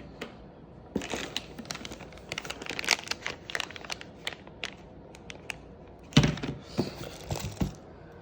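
Handling noises: a quick run of clicks and crinkling, then a few heavier knocks about six seconds in.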